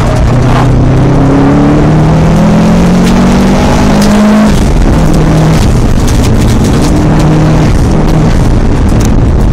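Subaru Impreza GT's flat-four engine heard from inside the car, pulling hard with its pitch rising. About four and a half seconds in the note falls sharply, then runs on at a lower, steadier pitch.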